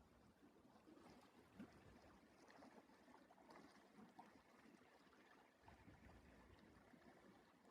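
Near silence: faint outdoor ambience with a few soft clicks and a brief low rumble a little past the middle.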